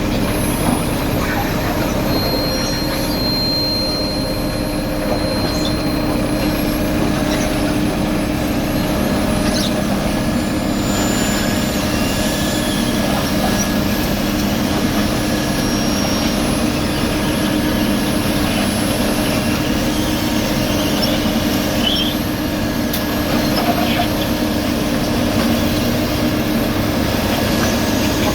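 Diesel engines of road-paving machinery running steadily, a constant drone with a few faint high squeaks and clicks over it.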